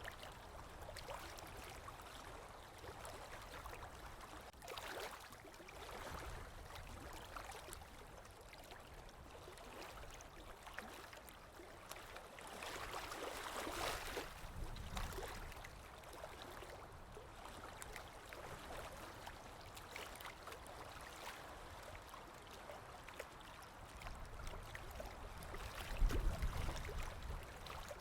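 Sea waves washing in and drawing back, a soft rushing that swells twice, with a low rumble near the end.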